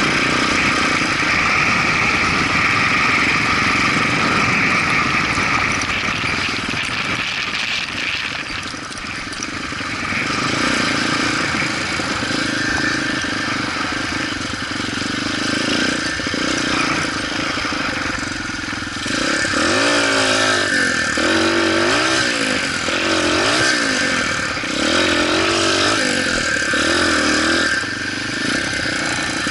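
Motorcycle engine running under way over a steady hiss. In the second half the engine note rises and falls again and again, about every second and a half.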